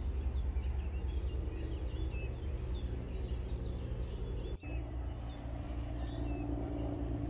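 Birds chirping with many short, high calls over a steady low background rumble; the sound cuts out for an instant about four and a half seconds in.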